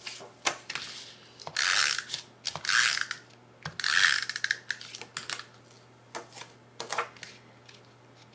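Papercraft handling noises at a craft table: scattered sharp clicks and three short, rasping bursts in the first half, as patterned paper squares are stuck onto the box, then a few lighter clicks.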